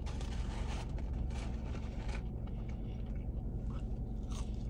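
Someone eating crispy shoestring fries: faint, irregular crunching and rustling over a steady low hum.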